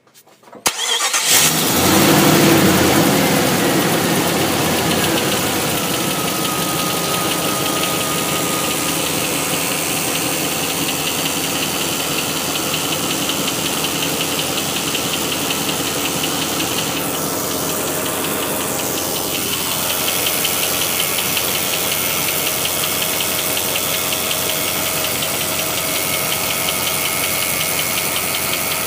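Jeep Grand Cherokee WJ engine cold-started: it catches about a second in, runs loudest just after the start, then settles into a steady idle. A rattle that the owner places at the 545RFE transmission bell housing sets in during the idle, a few seconds after the start.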